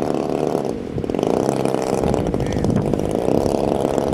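Small engine of a radio-controlled model airplane running steadily with a fast buzz.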